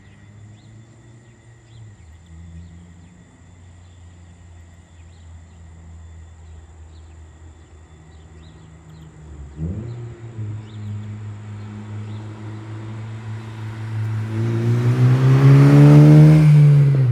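A 2013 Honda Civic Si's four-cylinder engine through an Invidia N1 cat-back exhaust: faint and distant at first, then louder from about ten seconds in as the car accelerates back toward the listener. It passes close near the end, loudest there, with the pitch rising and then dropping as it goes by.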